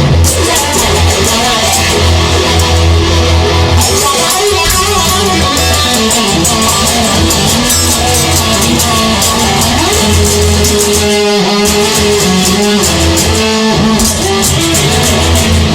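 Rock band music with electric guitar, bass and drums playing an instrumental passage without vocals.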